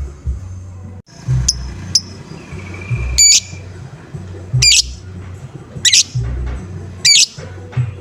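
Lovebird giving short, sharp, high-pitched 'ngoek' calls, one roughly every second, over background music with a steady bass beat.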